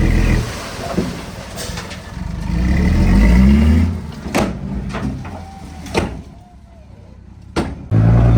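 Heavy diesel engine of earthmoving machinery running and revving, its pitch rising a few seconds in, with several sharp metallic knocks from about the middle on; the engine eases off, then comes back loud near the end.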